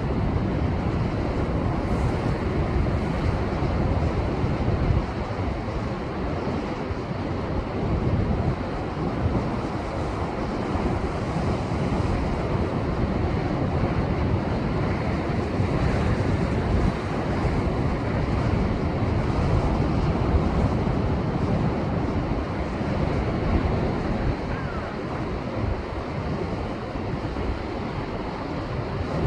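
Heavy storm surf after a typhoon, waves breaking and washing over shoreline rocks in a steady rumbling wash that swells and ebbs, with wind buffeting the microphone.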